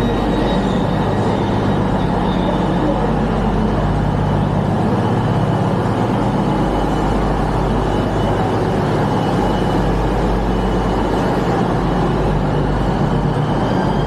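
A train's steady running noise: a constant low rumble with a faint high whine, dipping slightly in pitch near the end.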